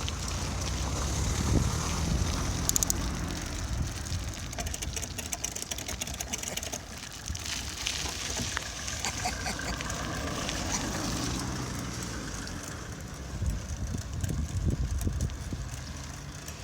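A bicycle being ridden, heard from the bike itself: wind rumbling on the microphone and tyre noise, with scattered clicks and rattles.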